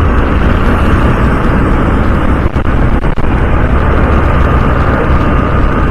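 Steady rush of wind and road noise from riding a Honda CD 110 motorcycle in moving traffic, with the bike's engine running underneath.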